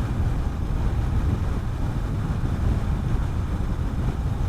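Honda CB400SS single-cylinder motorcycle engine running steadily while riding at a constant speed, with wind rushing over the microphone.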